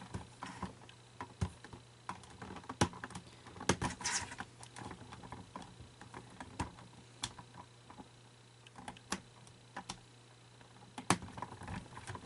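Irregular small clicks, taps and knocks of plastic parts of an animatronic figure being handled and worked on, over a faint steady hum.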